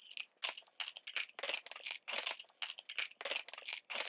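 Crunchy food being chewed at breakfast: a steady run of crisp crunches, about three a second.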